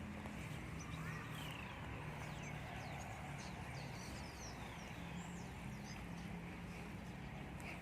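Many birds chirping in quick, scattered short calls, over a steady low hum.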